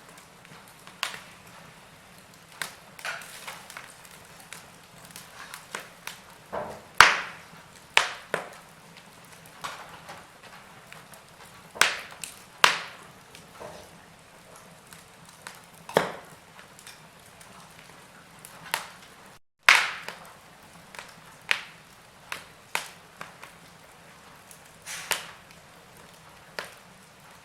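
Wood logs burning in a fireplace, crackling with irregular sharp pops and snaps over a faint steady hiss, the loudest pop about a quarter of the way in. The sound cuts out for an instant about two-thirds through.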